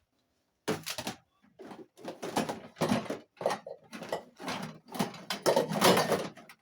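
Irregular knocks, clatter and rattles of household items being handled, starting about a second in and running in a dense string of short sharp sounds, cutting off near the end.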